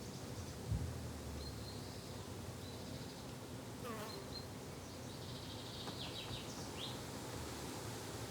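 Buzzing flies and bees in a steady low hum, with a few short high chirps and a brief low thump about a second in.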